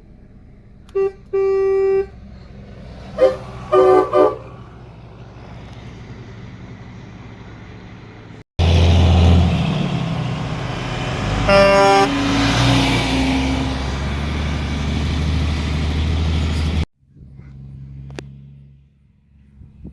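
Truck horns honking: a short toot and then a held blast, followed by three quick toots. After a cut, a loud, deep-running engine close by, with another horn blast partway through.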